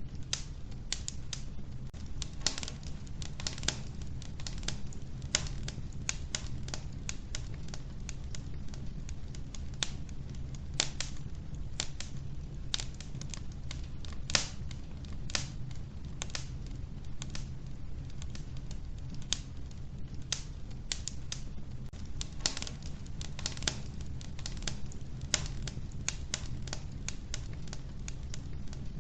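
Wood fire crackling in an old wood-burning stove: frequent irregular sharp snaps and pops, a few louder than the rest, over a steady low rumble of the burning.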